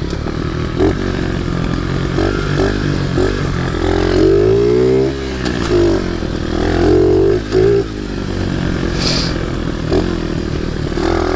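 Small Baja pit bike engine running while ridden, its pitch rising and falling as the throttle is opened and closed, with the biggest sweeps around the middle.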